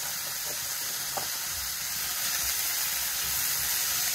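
Sliced bell peppers and red onion sizzling steadily as they fry in an aluminium pan, stirred with a wooden spoon.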